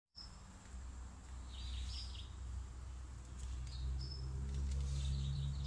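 Small birds chirping in short, high bursts every second or so over a low, steady hum.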